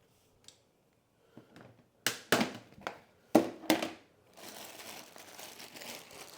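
Handling noise from something crinkly: a quick run of loud crinkling crunches, then a steadier rustling hiss.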